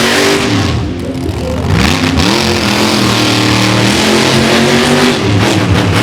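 Monster truck engine revving hard, its pitch swinging up and down a couple of times before holding a steadier high rev.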